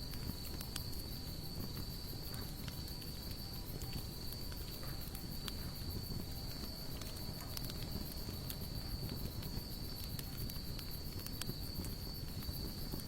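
Campfire of sawtooth oak and mixed hardwood logs crackling, with frequent small sharp pops and a low rumble of the flames. A steady, high-pitched trill of crickets runs underneath.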